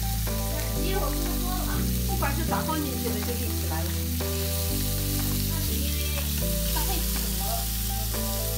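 Fish frying and sizzling in an electric grill pan, a steady fine hiss, over background music with sustained low notes that change about once a second.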